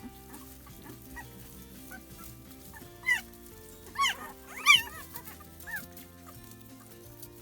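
Newborn puppies crying: a handful of short, high whining cries that rise and fall, the loudest about two-thirds of the way in, over soft background music. They are crying for their absent mother.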